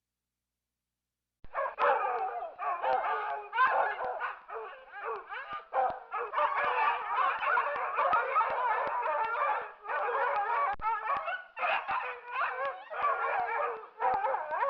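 Dog cries begin after about a second and a half of silence: a dense, almost unbroken run of high, wavering whines and yelps with brief gaps.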